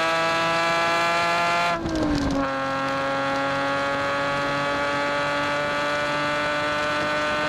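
Nissan 370Z's 3.7-litre V6 engine pulling hard, heard from inside the cabin, its pitch climbing slowly. About two seconds in it briefly dips and drops to a lower pitch, then climbs slowly again.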